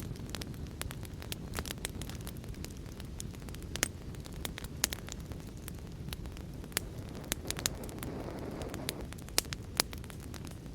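Wood fire crackling with many sharp, irregular pops over a steady low rumble of heavy rain. A brief swell in the rumble comes about three-quarters of the way through.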